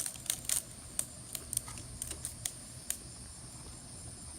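Rubber bands snapping against a watermelon's rind as they are stretched on, about ten sharp irregular snaps over the first three seconds, over a steady high drone of crickets.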